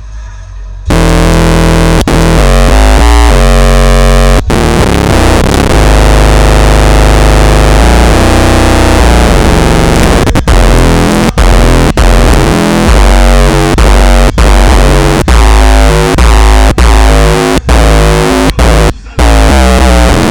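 Electronic music played very loud through a car stereo with two MTX Jack Hammer 12-inch subwoofers, the deep bass overloading the recording into distortion. It kicks in suddenly about a second in and cuts out briefly a few times near the end.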